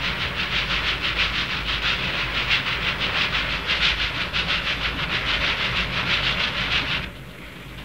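Cartoon train sound effect: a train running with a fast, even chugging rhythm over hiss and a low rumble. It cuts off abruptly about seven seconds in.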